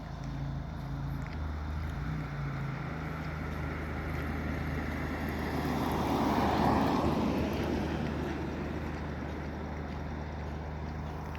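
A vehicle passing by: a broad rushing noise that swells to a peak about six to seven seconds in and then fades away, over a steady low hum.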